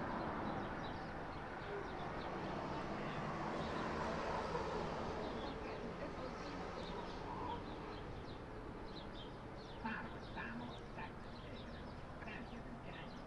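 Small birds chirping repeatedly, the calls more frequent in the second half, over a steady background hiss and a low hum.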